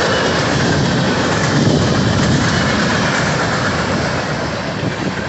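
Freight cars, covered hoppers and boxcars, rolling past close by: a steady rumble of steel wheels on the rails, easing off slightly near the end.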